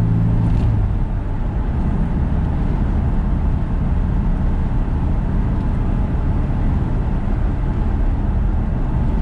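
VW T25/T3 bus driving: engine and road noise heard from inside the cab, with the engine note dropping about a second in. No knocking from the newly overhauled front suspension.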